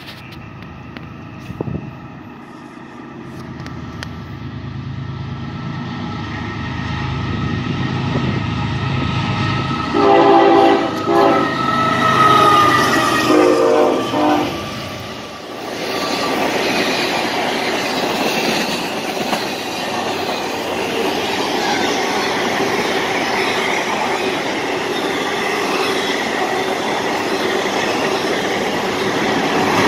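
Norfolk Southern diesel freight locomotive approaching with a low rumble that grows louder, then sounding its air horn in a string of blasts over about four seconds as it passes close. After that comes the steady rolling clatter of the freight cars going by on the rails.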